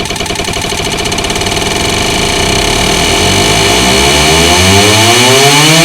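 Race car engine accelerating hard: its firing pulses speed up into a continuous drone that rises steadily in pitch and grows louder.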